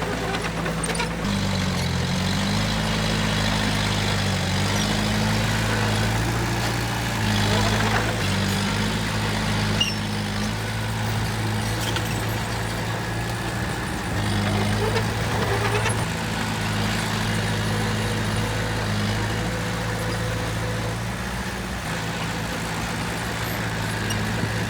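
Heavy diesel engine of earthmoving machinery running steadily, its pitch stepping up and down several times as it is throttled up and eased off.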